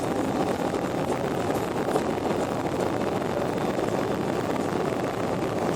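Steady airliner noise: an even rushing drone that holds at one level throughout.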